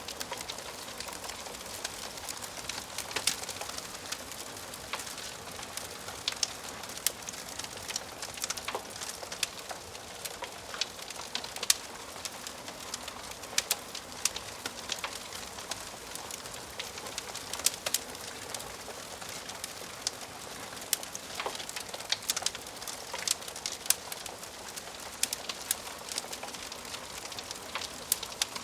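Wood fire crackling in a fireplace: frequent, irregular sharp pops and snaps over a steady soft hiss.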